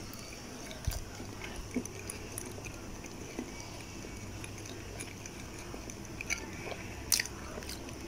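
A person chewing and biting food close to the microphone: soft mouth sounds with scattered small clicks and a few sharper smacks, over a steady low hum.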